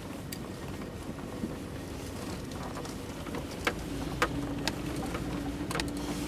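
Steady background noise with a handful of sharp clicks in the second half, and a low steady hum coming in about four seconds in.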